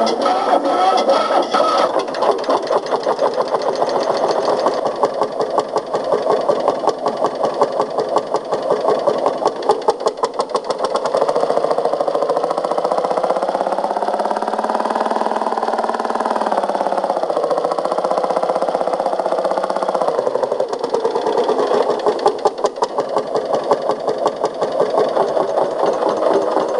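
Lanz tractor's single-cylinder hot-bulb engine running with a rapid, even knock. From about eleven seconds a smoother note rises and falls, then breaks off sharply near twenty seconds, and the knocking run returns.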